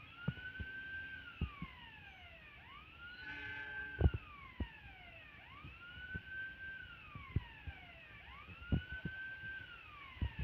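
An electronic wailing siren that rises, holds, then glides down, repeating about every three seconds. Scattered sharp knocks come throughout, the loudest about four seconds in, and a short horn-like tone sounds just before it.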